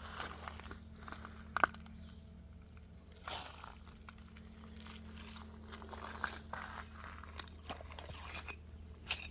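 Irregular crunching and sharp clicks of creek stones and broken glass being shifted and stepped on, with a single sharper click about a second and a half in and a busier run of clicks in the last few seconds.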